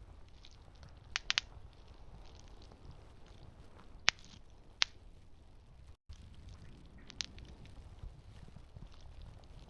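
Wood campfire crackling: irregular sharp pops, a quick cluster of three about a second in and single loud ones around four, five and seven seconds, over a low steady rumble of the flames. The sound cuts out for an instant about six seconds in.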